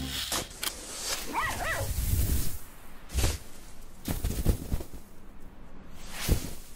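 Puppy giving two short high whimpers about a second and a half in, each rising and falling in pitch, followed by a few soft rustles and thuds.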